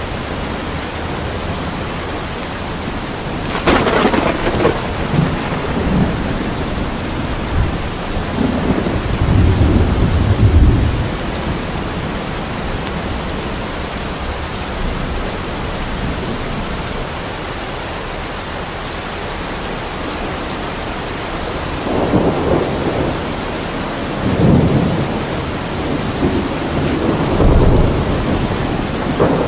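Heavy rain falling steadily, with rolls of thunder. A sharp crack about four seconds in runs into a rumble, a deep rumble follows around ten seconds, and several more peals come near the end.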